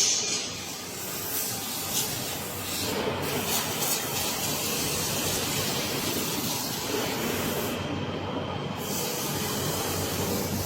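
Steady hissing noise, starting with a sharp knock.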